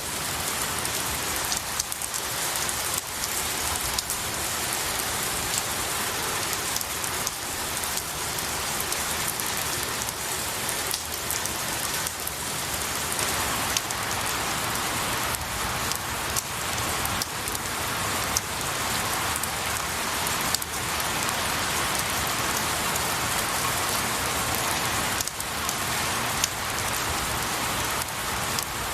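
Steady rain falling on pine needles and trees, an even hiss with scattered sharp drop ticks.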